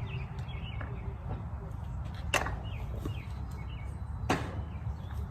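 Two sharp knocks about two seconds apart from work on the wooden coop door as its hinges go on, with short, high bird chirps faintly throughout over a low outdoor rumble.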